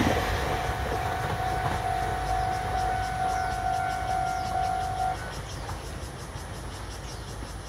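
A train running past with a low rumble and a steady high tone that stops about five seconds in, the whole sound slowly fading away.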